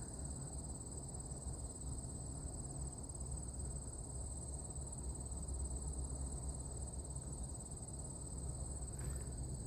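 Insects singing in a steady, high-pitched chorus, over a low rumble on the microphone.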